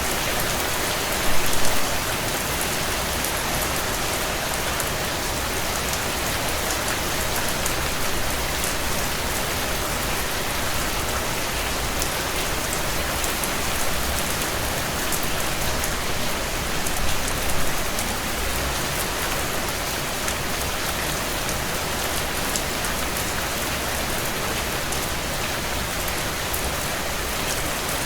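Steady heavy rain hissing against a window, with small crackles from a wood fire scattered through it. Two brief louder bursts come about a second and a half in and again near the middle.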